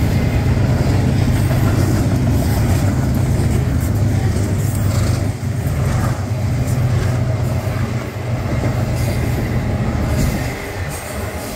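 Double-stack intermodal freight train's well cars rolling past close by: a steady low rumble of steel wheels on rail with running clatter from the cars, dipping briefly about halfway and easing slightly near the end.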